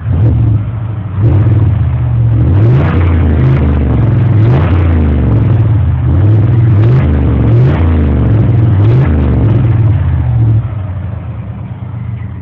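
Truck engine being revved through a series of throttle blips, its pitch climbing and falling again and again, heard through the exhaust. It drops back to idle near the end.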